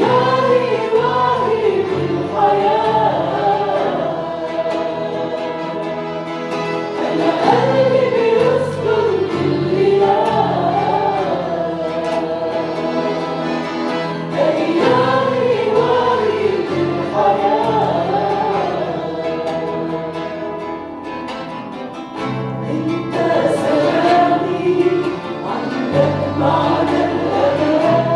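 A group of voices singing a Christian worship song in Arabic, with instrumental accompaniment holding sustained low notes that change every second or two.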